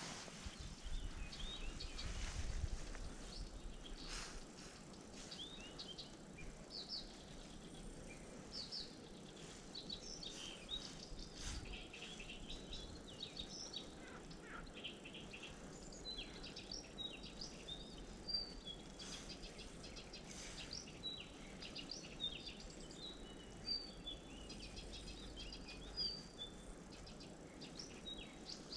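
Small birds chirping and calling throughout, many short high notes overlapping, with a faint low rumble and a few soft clicks.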